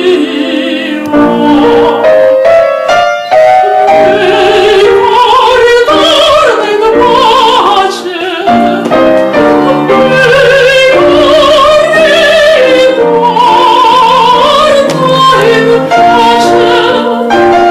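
Classical operatic singing with a wide vibrato, accompanied by piano.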